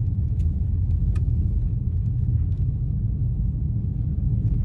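Steady low road and tyre rumble with engine noise, heard from inside an all-wheel-drive car driving on a snowy highway.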